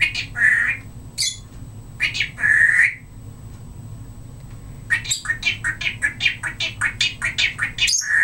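Timneh African grey parrot calling: two squawks in the first three seconds, then a fast run of repeated mimicked "pretty" calls, about four or five syllables a second, lasting about three seconds.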